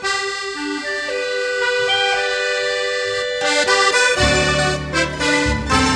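Accordion playing the melody of a song's instrumental introduction; about four seconds in, bass and a beat join in.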